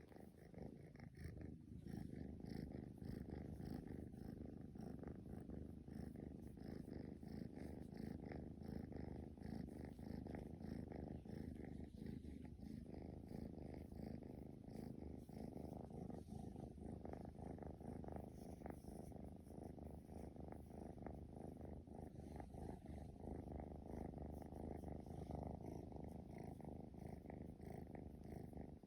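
Kitten purring steadily: a continuous low rumble.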